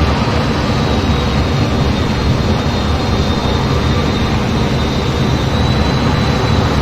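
F-15 fighter's jet engines running steadily, a loud even rush of noise with a faint, steady high-pitched whine above it.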